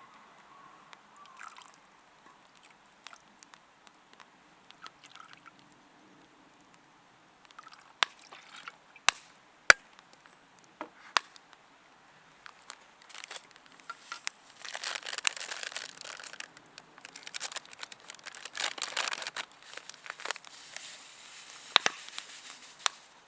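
Liquid being poured into a cooking pot in two stretches of hissing pour partway through, preceded by a few sharp clicks and knocks of utensils and containers.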